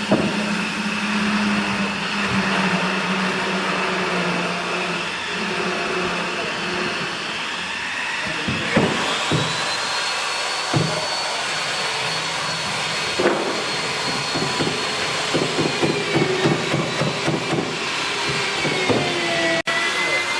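An electric power tool runs with a steady noise and a high whine that rises and dips as the tool is loaded, likely working timber. A few separate knocks come through it.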